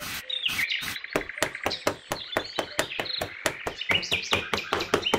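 Small pointed trowel scraping and tapping across fine sand, a rapid, irregular run of gritty clicks. Birds chirp over it.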